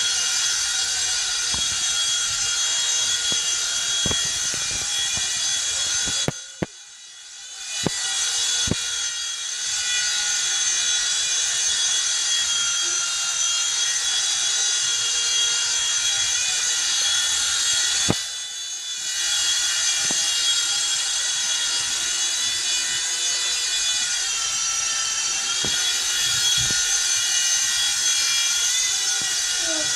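High-pitched whine of a WLtoys V911 pro RC helicopter's electric motor and spinning rotor, holding steady with slight wavers in pitch. Twice it cuts off abruptly and spins back up over a second or so, and a few sharp clicks sound along the way.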